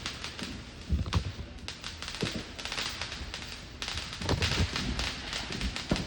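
Fireworks popping and crackling: a run of irregular sharp pops and thuds, densest about four seconds in.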